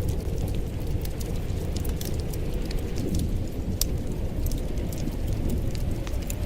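Wood fire in a fireplace crackling: frequent small sharp pops and snaps over a steady low rumble of the burning.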